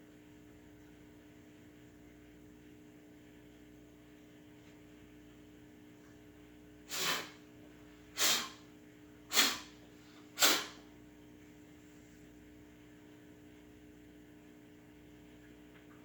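A person blowing four short, sharp hissing bursts from the mouth, about a second apart, under a faint steady hum.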